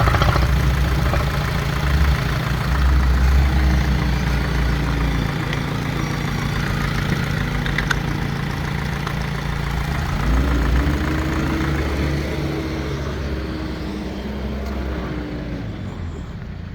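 Opel Astra J 1.7 CDTi four-cylinder turbodiesel engine (A17DTR) idling, with the revs rising and falling a couple of times.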